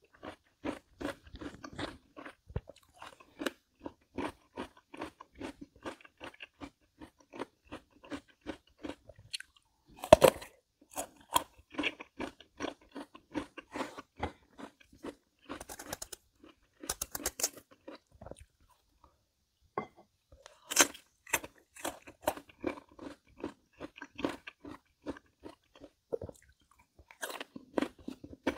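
Crunchy chamoe (Korean melon) being chewed with quick, steady crunches several times a second, with a few louder crunches about ten, sixteen and twenty-one seconds in.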